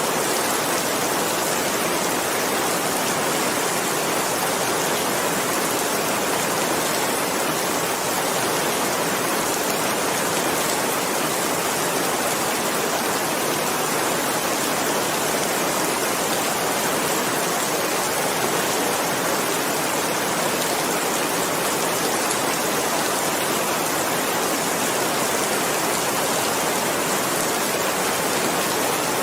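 Steady rain falling, a dense, even hiss with no single drops standing out.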